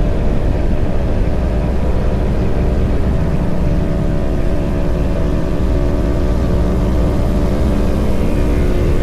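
Sport motorcycle running at a steady engine speed while being ridden, over a steady low rumble.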